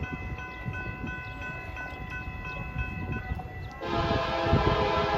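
Approaching SD70M-2 freight locomotives rumbling, with a thin steady high ringing tone. About four seconds in, the lead locomotive's horn sounds a loud multi-note chord that holds to the end.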